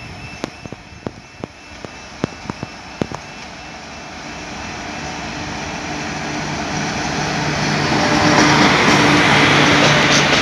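Electric freight locomotive and its train approaching and passing close: the rumble of the train grows steadily louder and is loudest from about eight seconds in, with a low steady hum from the locomotive. A run of sharp clicks comes in the first three seconds.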